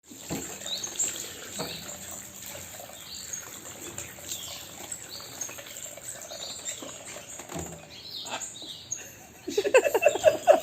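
Bird chirping: short high calls scattered throughout. Near the end a rapid run of louder, quickly repeated sounds begins.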